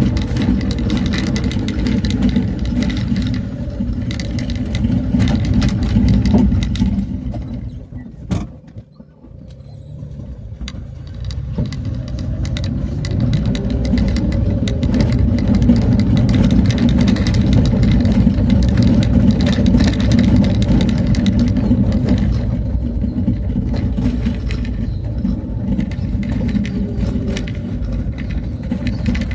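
A vehicle running along a road, steady engine and road rumble. About eight seconds in the sound drops away sharply, then builds back up over the next few seconds.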